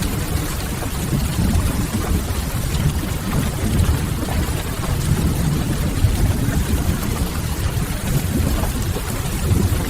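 Steady rain ambience: an even hiss of rainfall over a deep, constant rumble, with no distinct events.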